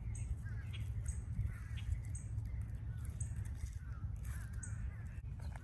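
Birds calling outdoors, with short wavy calls and a high note repeating about once a second, over a steady low rumble.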